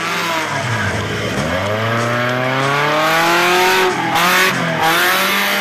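Off-road buggy's engine revving hard under load. Its pitch climbs for a couple of seconds, dips briefly about four seconds in, then climbs again.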